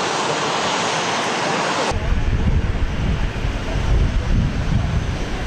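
Steady airliner engine hiss at an airport apron. About two seconds in it cuts off abruptly into low wind rumble buffeting the microphone.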